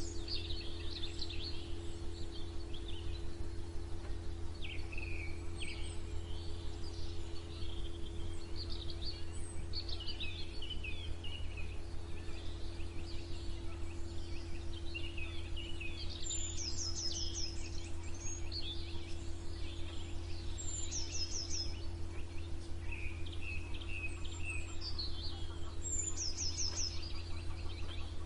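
Several small songbirds singing and chirping in overlapping phrases, with a few quick high trills recurring every few seconds, over a steady low hum.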